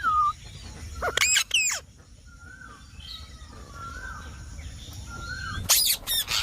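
Indian ringneck parrot calling: two loud, shrill screeches about a second in and a burst of them near the end, with soft, quieter chattering notes in between.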